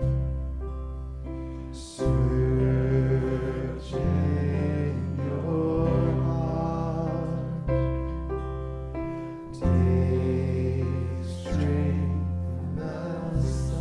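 Live band and voices singing a slow chant, with sustained chords over a deep bass that change about every two seconds.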